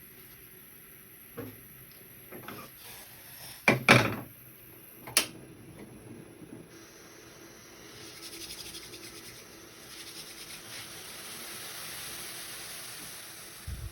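Kitchen handling sounds: a few knocks and clatters, the loudest about four seconds in and another a second later, then a steady hiss through the second half.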